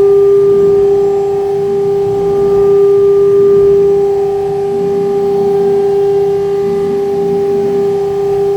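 CNC router spindle running a program: a steady high whine with fainter overtones above it, over an uneven lower hum.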